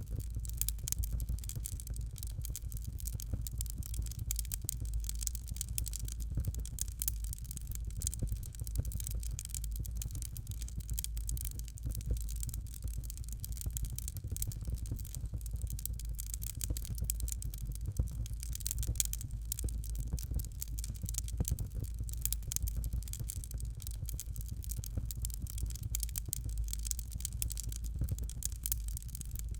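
Fireplace fire crackling: a dense, irregular run of small crackles and pops over a low, steady rumble.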